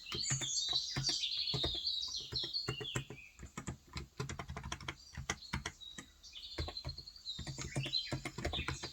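Typing on a Cox Endeavor electro-capacitive (Topre-style) 35 g tenkeyless keyboard: a fast, uneven stream of soft keystrokes. Small birds chirp over it in the first few seconds and again near the end.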